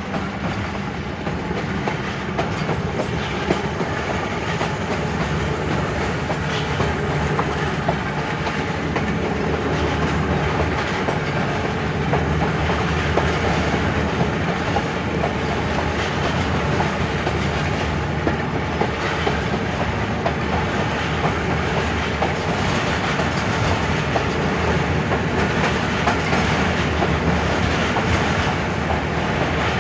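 Pakistan Railways passenger coach running at speed, heard from its open doorway: a steady noise of wheels on the rails, full of small clicks, with rushing air.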